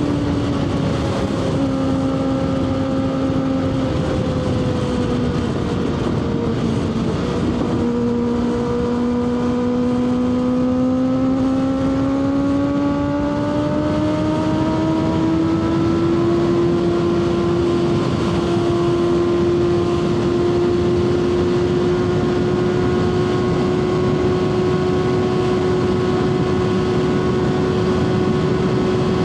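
Kawasaki ZX-6R inline-four engine running under way, its pitch dropping over the first few seconds, then climbing steadily as the bike gathers speed and holding a steady high note for the second half, over a constant rush of wind noise.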